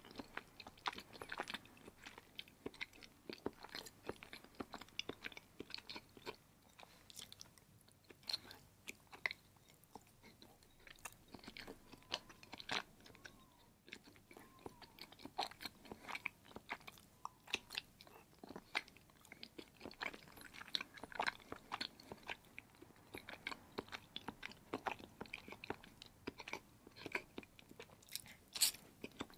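A person chewing and eating cheese: mouth noises with many small clicks and smacks in a quick, irregular stream.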